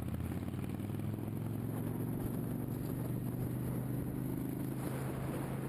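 Motorcycle engine running steadily; its pitch rises a little over the first few seconds, then holds even.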